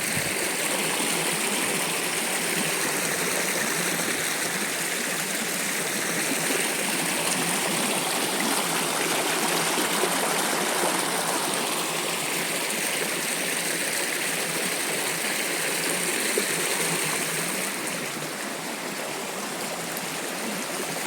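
Small waterfall cascading over rocks: a steady rush of water, easing slightly a few seconds before the end.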